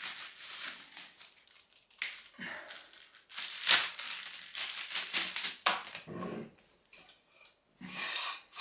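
Packaging being handled and unwrapped: irregular bursts of crinkling and tearing, the loudest a little under four seconds in.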